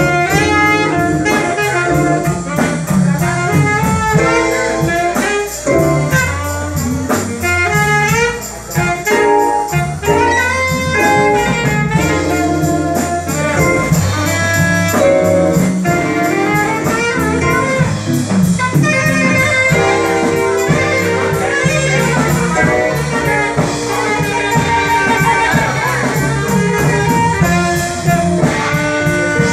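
Live band playing an instrumental jazz number: a melodic lead line with bending notes over a steady bass line and a drum kit keeping an even beat.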